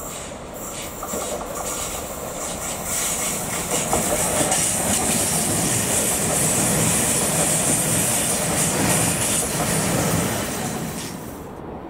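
Electric multiple unit running past, with wheels clattering on the rails and a high hiss. The sound builds as the train comes closer, stays loud for about six seconds, and then cuts off abruptly about a second before the end.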